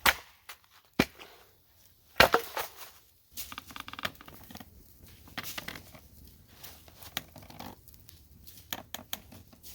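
Three sharp snaps, then irregular rustling and crinkling handling noises.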